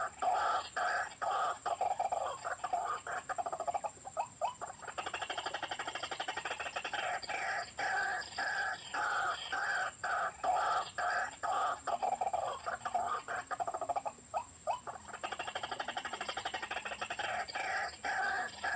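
White-breasted waterhen calls played as a lure from a small speaker: an even series of harsh notes, about three a second, that breaks off briefly twice and starts again, over a steady high-pitched whine.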